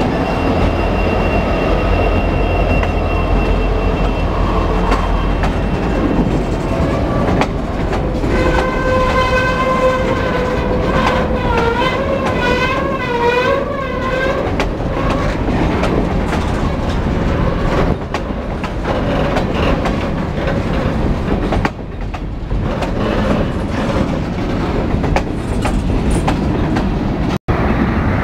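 CN freight train rolling past at close range: diesel locomotives rumbling by at the start, then freight cars clattering over the rail joints. From about 8 to 14 seconds in, a drawn-out pitched squeal rises over the train noise and wavers toward its end.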